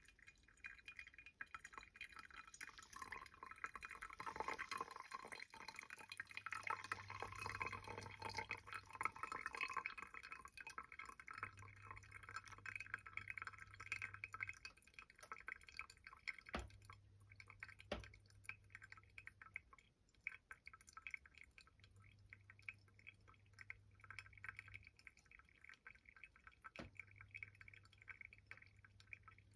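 Coffee brewing: water pouring and dripping through the grounds, a fine crackling trickle that is fullest in the first third. A low hum comes and goes in spells of about three seconds, and three sharp creaks from the air conditioner sound in the second half.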